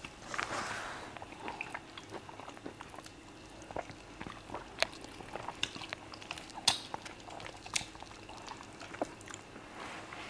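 Close-miked eating of fufu and soup by hand: wet chewing and lip smacks, with scattered sharp smacking clicks, the loudest a little before the seventh second.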